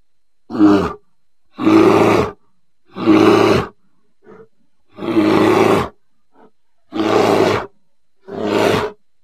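Polar bear vocalising: a series of six loud calls, each under a second long and spaced about a second and a half apart.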